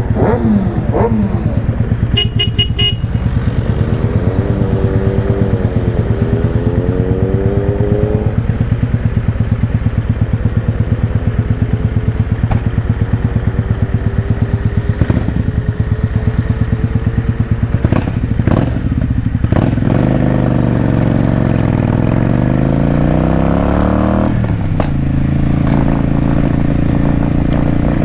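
Motorcycle engine running under way, with a steady pulsing beat. Its pitch rises and falls several times as the bike speeds up, shifts and slows, with a slowing drop and pick-up again about twenty seconds in. A few short clicks sound near the start.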